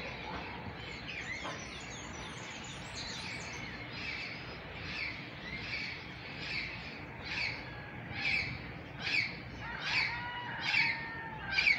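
Birds singing and chirping. From about halfway through, one bird repeats a short call a little more than once a second, getting louder toward the end.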